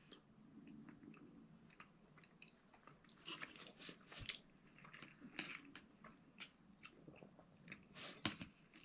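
Faint close-up chewing of a mouthful of beef chunks in tomato sauce, with scattered small clicks, a few sharper ones about eight seconds in.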